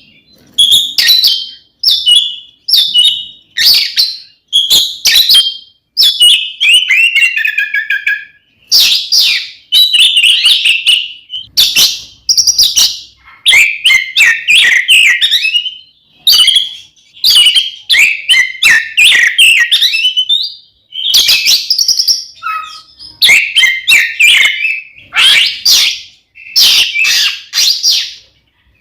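Oriental magpie-robin (kacer) singing loudly and almost without pause, in short varied phrases of high whistled and sharp notes, some sliding down in pitch, with brief gaps between phrases. It is the bird's aggressive 'fighting' song, the kind played to provoke a kept male into singing.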